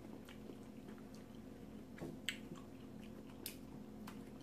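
Close-up chewing of a bite of smoked sausage: faint wet mouth sounds with a few sharp clicks, over a steady low hum.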